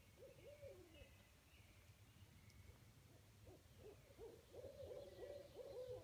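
Faint hooting bird calls: a run of short low notes that each rise and fall, sparse at first and then coming thick and overlapping in the last couple of seconds.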